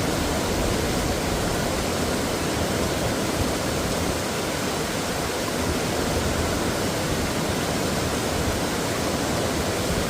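Mountain stream water flowing over rocks in a steady, unbroken rush.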